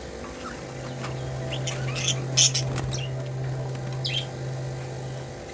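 Budgerigars chirping in short, high calls, bunched together in the middle with one more near the end. A steady low hum runs underneath, starting just under a second in and stopping shortly before the end.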